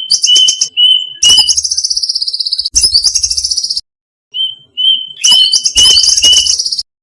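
Violet cuckoo calls: rapid, high-pitched trills that slide slightly downward, alternating with runs of short whistled notes. The calls break off briefly about four seconds in and stop just before the end.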